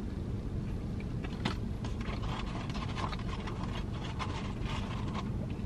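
Close-up chewing of crispy fried chicken, with small crackles and rustles from about a second and a half in until near the end, over a steady low hum inside the car cabin.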